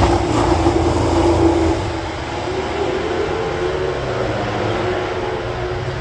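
MotoGP race bike's engine going past at speed and fading away over the first two seconds, its pitch bending down. A steadier, quieter engine sound carries on after that.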